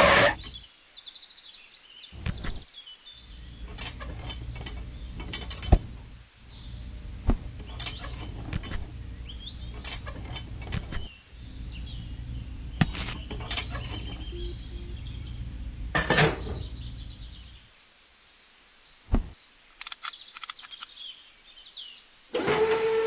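Low rumble with scattered sharp clicks and knocks, and faint bird chirps; the rumble stops about eighteen seconds in, leaving a few clicks.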